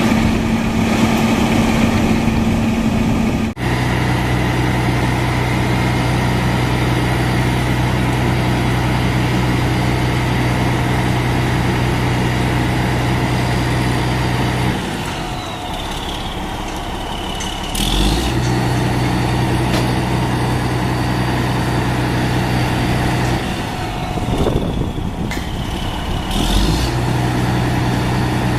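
Diesel engine of a fire apparatus idling with a steady note. Twice the note drops away for a few seconds and then comes back in with a low bump.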